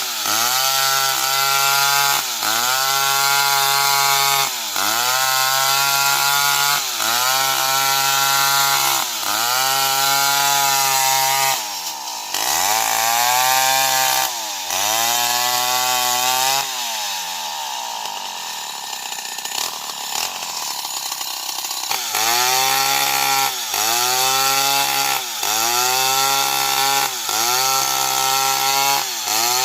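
Old Stihl 070 two-stroke chainsaw cutting into wood, its engine pitch dipping under load and picking back up in a regular cycle about once a second. About two-thirds of the way in the engine winds down to a lower speed for several seconds, then the dipping cycle resumes.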